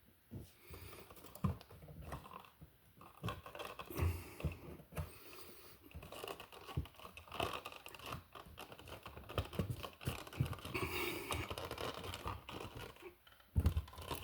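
Insulated electrical wires with wire nuts being bent and pushed into a wall outlet box by hand: irregular clicking, tapping and rustling, with a sharper cluster of clicks near the end.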